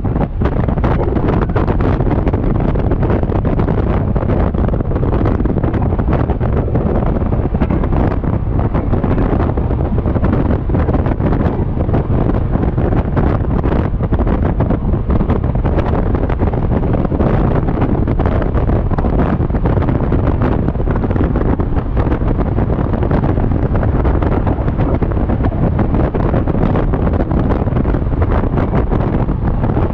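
Steady, loud wind buffeting on a GoPro Hero 7 Black's microphone while riding a Yamaha XMAX scooter.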